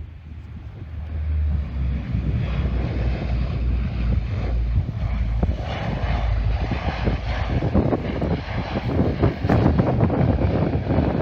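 Airliner engines passing low overhead: the engine noise swells over the first two seconds, then holds loud and rumbling.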